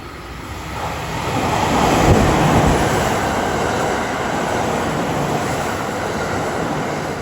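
A JR 683 series electric express train passing slowly along the platform, its running noise on the rails building over the first two seconds and then holding steady.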